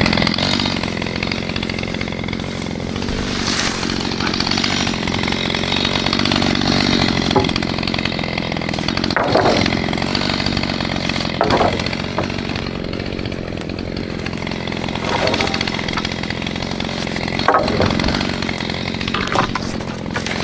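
Stihl MS211 two-stroke chainsaw running steadily while cutting small trees, with several short sharp knocks scattered through.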